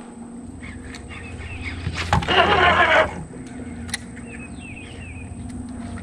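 Birds calling with short, downward-sliding chirps in a few quick runs. About two seconds in there is a loud noisy burst lasting about a second.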